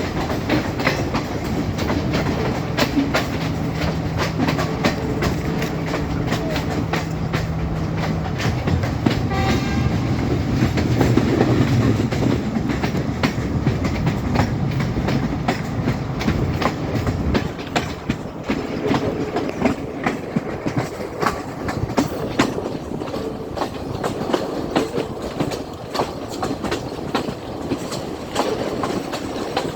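Sri Lanka Railways Class S14 express diesel multiple unit running along the line, its wheels clicking over rail joints again and again above a steady rumble, with a low hum for a few seconds near the start.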